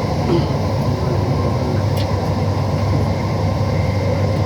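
Bengaluru Namma Metro train running between stations, heard inside the coach: a steady rumble and hum of the car in motion, with a single short click about two seconds in.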